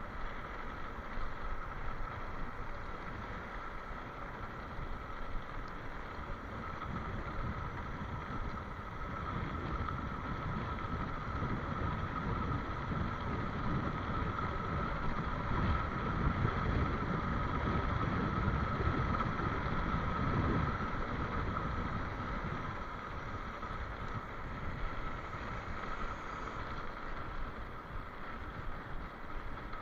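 Wind buffeting the microphone during a ride, with a low rumble that builds up around the middle and eases off again toward the end.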